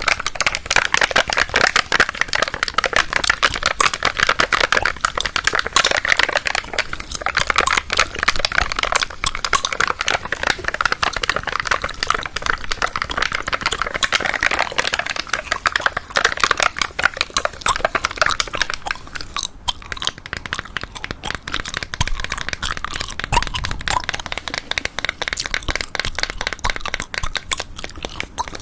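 Gum chewed close to the microphone: a dense, continuous run of small wet clicks and smacks.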